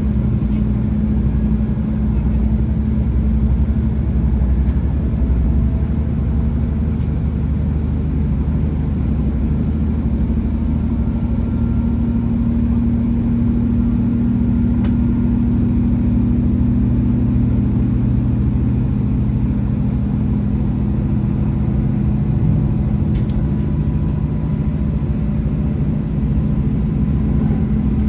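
Class 165 diesel multiple unit's underfloor diesel engines running steadily while the train is under way: a continuous low drone whose engine note drifts slightly in pitch, over a low rumble.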